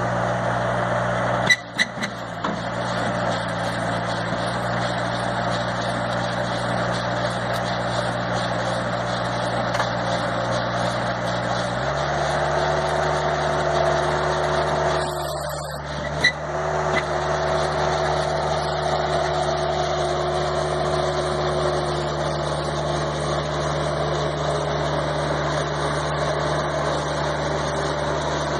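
Bobcat 763 skid steer's diesel engine running steadily. About twelve seconds in, the engine note shifts abruptly to a different steady pitch. A few sharp clicks come near the start.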